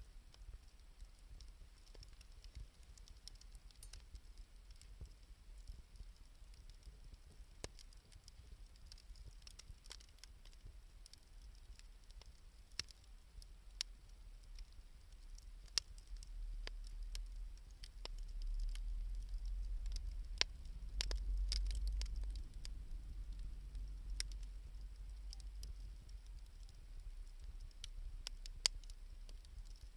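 Wood fire of scrap 2×4 lumber and scavenged wood crackling, with scattered sharp pops and snaps. A low rumble swells about halfway through and eases off near the end.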